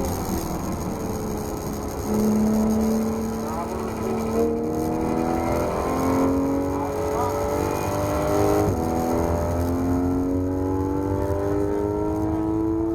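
Porsche 991 GT3 RS's naturally aspirated flat-six accelerating hard through the gears. The engine note climbs steadily in each gear and drops sharply at each paddle upshift, about four times, before a long, steady pull.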